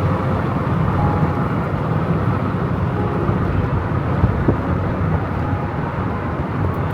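Steady rumble of a car driving: engine and road noise, even and unchanging.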